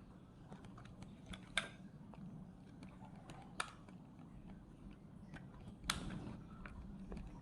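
Small sharp clicks and taps of a Bluetooth headset's parts being handled and fitted back together, three louder clicks spaced about two seconds apart with fainter ticks between.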